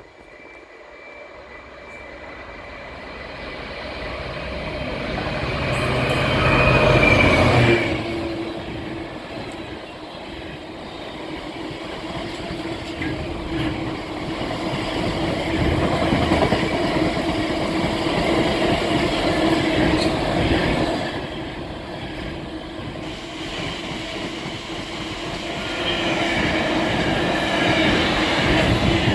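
A GBRF Class 66 diesel locomotive's two-stroke engine grows louder as it approaches and passes about seven seconds in. A long rake of freight wagons then rolls by, with wheel and rail clatter and a steady whine from the wheels, swelling again near the end.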